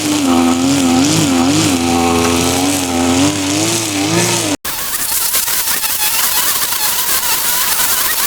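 A motor running with a wavering pitch, then an abrupt cut just past halfway to a different, higher-pitched machine whir with a crackly hiss.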